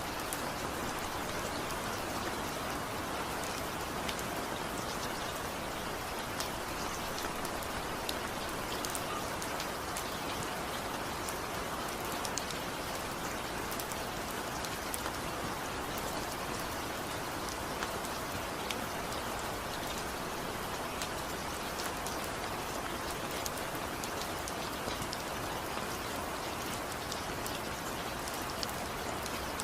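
Steady rain falling on a surface, an even hiss with scattered individual drop ticks and no thunder.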